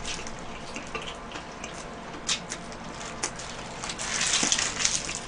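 Wet, close-up chewing of a mouthful of burger, with scattered smacking clicks and the paper wrapper crinkling now and then.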